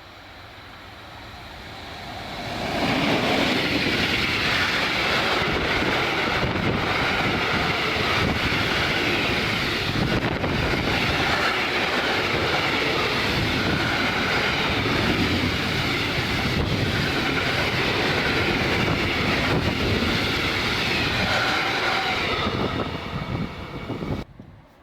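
A train passing close by: the noise builds over about three seconds, holds steady and loud for about twenty seconds, then falls away and cuts off shortly before the end.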